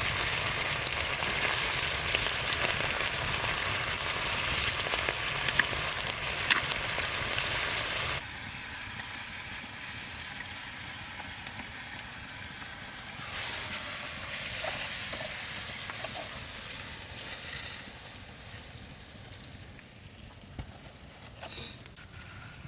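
Food sizzling as it fries in a pan. The sizzle is loud for about the first eight seconds, then drops suddenly to a quieter sizzle that slowly fades, with a few faint ticks.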